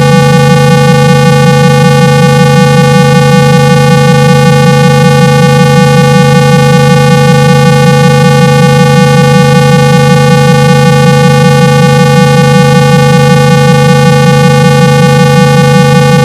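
A steady, loud, buzzy 165 Hz low tone with many overtones, held without a break. It is the kind of tone played through a phone's speaker to shake water out of it.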